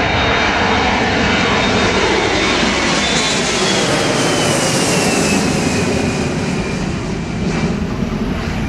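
Airbus A319 jet engines running loud, with a thin high whine that glides slowly down in pitch and fades toward the end.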